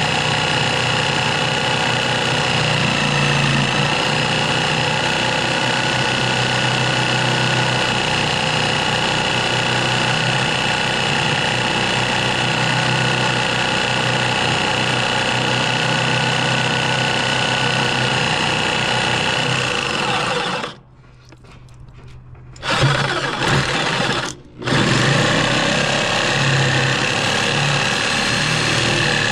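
Power cutting tool running steadily as it cuts through a rusted bolt. It stops about 21 seconds in, starts again two seconds later, breaks off briefly once more and then runs on.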